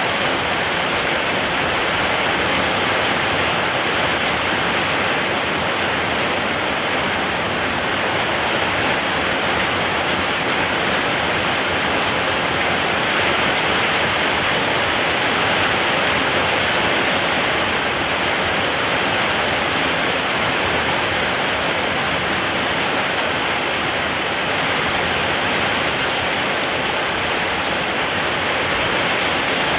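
Steady heavy rain falling, a dense even hiss with no break.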